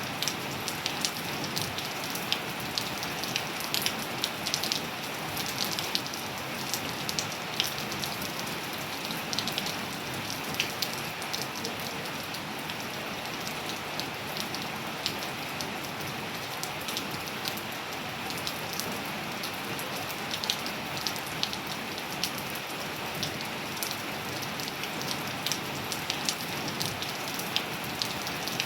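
Steady rain falling on hard surfaces, with many close raindrops ticking sharply over an even hiss.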